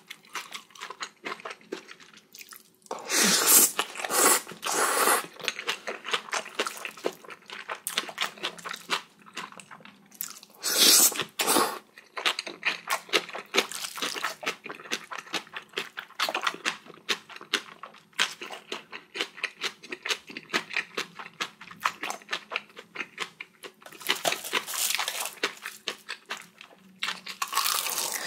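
Close-up eating sounds: a person chewing a big mouthful of spicy bibimbap and kimchi, with rapid wet smacks and crunches. Three louder noisy stretches of about a second or two break in, at roughly 3 s, 11 s and 24 s.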